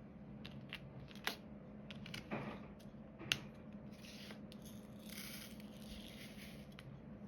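Small sharp clicks and taps of diamond-painting work, with the applicator pen picking up and setting plastic drills on the canvas. The two loudest clicks come about a second and a third of a second in, there is a brief rattle a little after two seconds, and light scratching runs through the second half.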